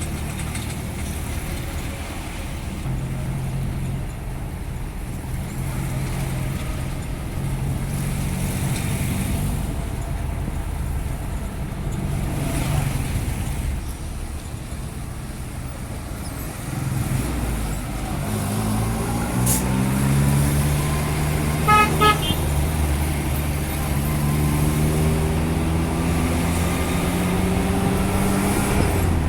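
Truck engine running steadily, then rising in pitch as it revs and pulls away a little over halfway through. A quick burst of horn toots is the loudest thing, about two-thirds of the way in.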